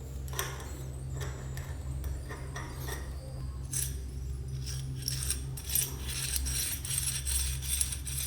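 Light metallic clicks and clinks of small steel tool parts being handled, a few at first and then coming thick and fast in the second half.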